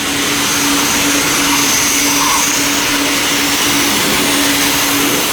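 Car wash high-pressure wand spraying soap in a steady loud hiss, with a steady low hum underneath.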